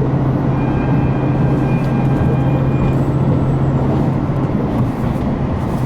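KiHa 261 series diesel railcar's engine running under power, heard from inside the carriage as a steady low drone over the train's rumbling running noise. The drone drops away near the end as the engine eases off.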